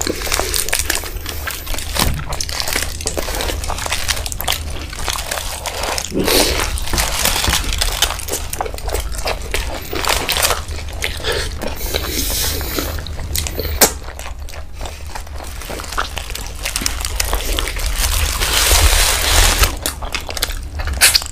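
Close-miked mukbang eating sounds: chewing and biting into chicken shawarma rolls, with many short clicks throughout.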